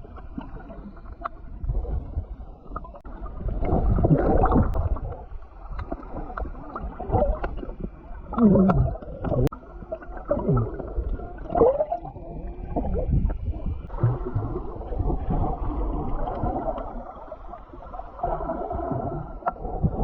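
Muffled underwater sound from a submerged camera while snorkeling: irregular water sloshing and gurgling, swelling and fading every second or two.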